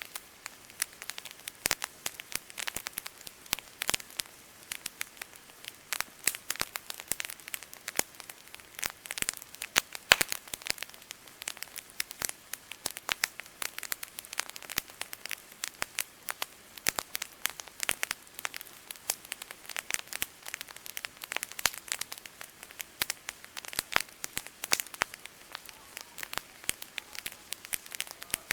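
Campfire crackling, with dense irregular pops and snaps of burning wood, one sharper pop about ten seconds in.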